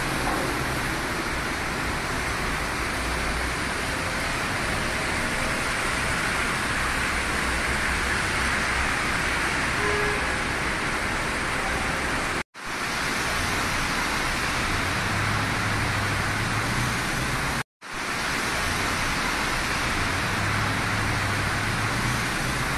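Heavy rain and wet-road noise of a car driving on a highway in a downpour: a steady hiss of rain and tyre spray over a low road rumble. The sound cuts out briefly twice.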